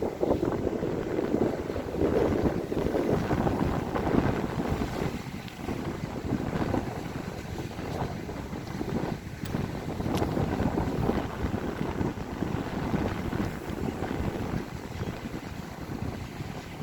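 Wind buffeting the microphone over a steady rush of sea water, rising and falling in gusts.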